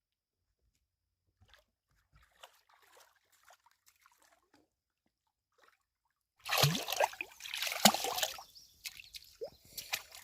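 Water sloshing and trickling: faint scattered drips and splashes at first, then louder, irregular splashing with sharp knocks for the last few seconds.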